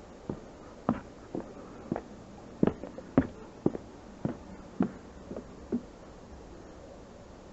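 Footsteps walking at an even pace, about two steps a second, stopping about six seconds in.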